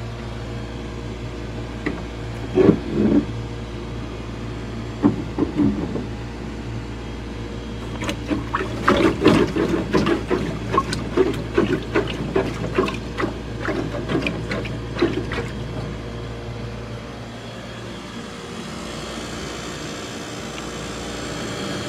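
Steady low mechanical hum of running equipment, with scattered knocks and clatter that come thickest from about 8 to 15 seconds in.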